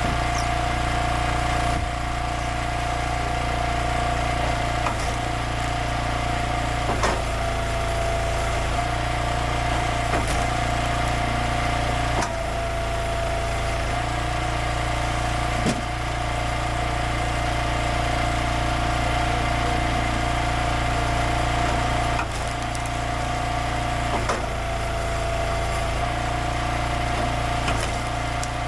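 Small gas engine of a hydraulic wood splitter running steadily. Its note shifts every few seconds as the load comes and goes, and there are a few sharp cracks.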